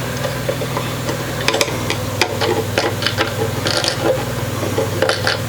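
A steady low machine hum, with scattered light clicks and knocks on top.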